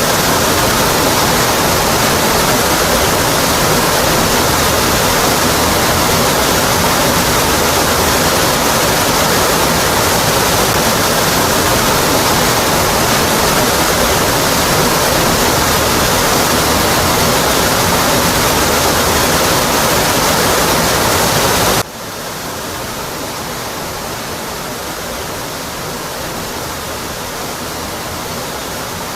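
Waterfall rushing steadily, a dense even roar of falling water. About three-quarters of the way through it drops abruptly to a lower, quieter level, as at an edit in the recording.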